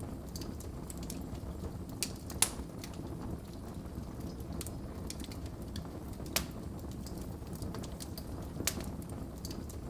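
Wood fire in a fireplace crackling: many small ticks and four sharper pops, the loudest about two and a half seconds in, over a low steady rumble of the flames.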